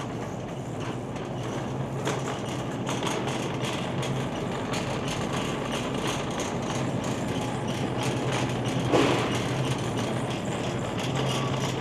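Shopping cart rolling across a hard store floor with a steady rumbling rattle, over the background noise of a busy store, and one sharp clunk about nine seconds in.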